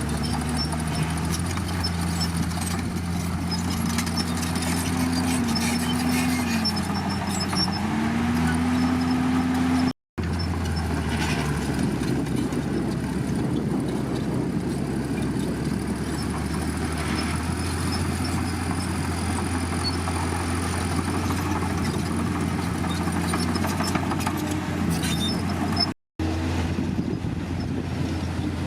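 Komatsu D51PX crawler bulldozer's diesel engine running steadily under load, its note rising and falling for a few seconds early in the stretch. The sound drops out abruptly twice for a split second.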